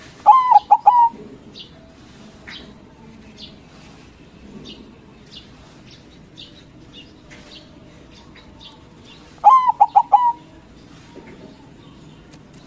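Zebra dove (perkutut) singing its cooing phrase twice, a quick run of four or five coos right at the start and again about nine seconds later. Faint short chirps from small birds come in between.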